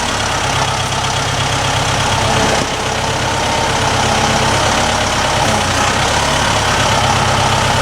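Engine of a fork-equipped loader running steadily at idle.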